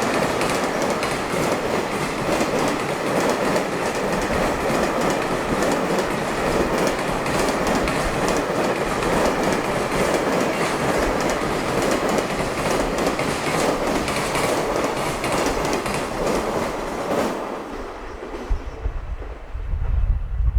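Freight train wagons running past, the wheels clattering over rail joints in a steady clickety-clack. Near the end the clatter fades away as the train clears, leaving a low rumble.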